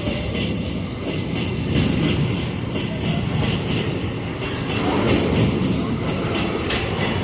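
Freight train wagons rolling past, a steady rumble of steel wheels on the rails with repeated clacks as the wheels cross rail joints.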